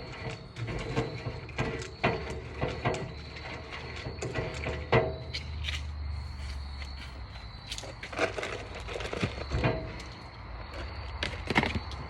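Irregular knocks and scrapes of stirring and handling a batch of homemade dog food of rice, oatmeal and water, over a steady low hum.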